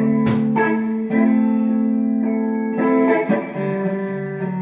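Guitar accompaniment to a slow gospel song: a few strummed chords ringing out and sustaining between sung lines.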